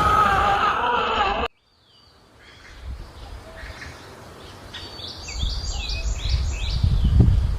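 Background music cuts off about a second and a half in. Then quiet outdoor ambience follows, with a bird chirping a quick run of short falling notes near the middle and a low rumbling noise building toward the end.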